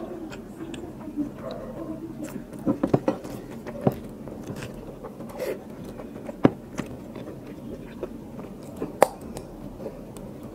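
Close-miked chewing of a mouthful of biryani eaten by hand, with short wet mouth clicks and smacks scattered through, the sharpest about six and a half and nine seconds in.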